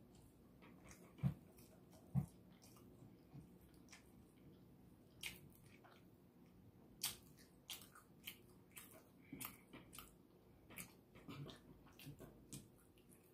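A person chewing rotisserie chicken, with scattered wet mouth clicks and smacks. Two low thumps come a little over a second in and about two seconds in.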